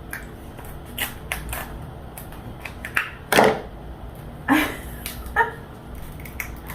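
Close-up eating sounds: scattered wet clicks and smacks of chewing, a few louder than the rest, over a steady low background hum.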